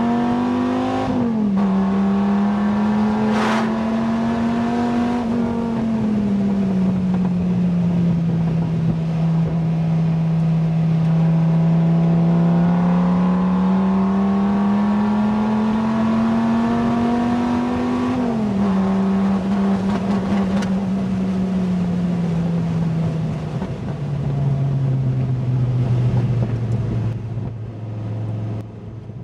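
Dodge Viper SRT-10's V10 with a modified exhaust, heard from the cockpit at speed: the engine pulls up through the revs with a sharp upshift about a second in and another about eighteen seconds in, holding steadier revs in between. After about 23 seconds the revs drop as the car slows, and the sound fades out at the end.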